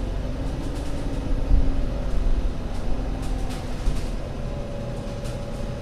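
ADL Enviro500 MMC Euro 6 double-decker bus running under way: a steady low engine rumble with a whine whose pitch rises slightly and then eases, plus scattered light rattles.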